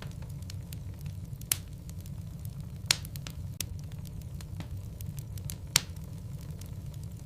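Logs burning in a fireplace: a steady low rumble of flame with scattered light crackles, and three louder, sharper pops spread through.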